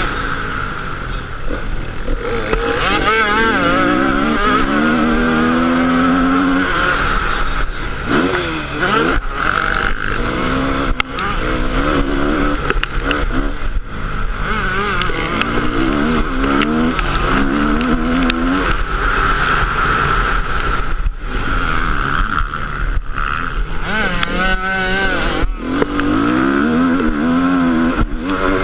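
Motocross bike engine revving hard and easing off over and over, its pitch climbing and dropping repeatedly as it runs through the gears.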